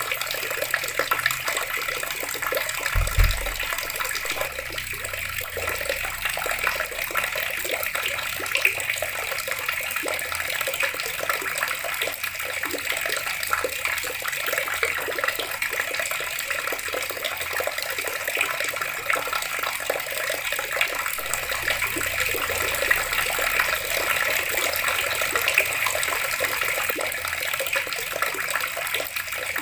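Water running steadily from a tap, splashing and trickling. A brief low thump comes about three seconds in.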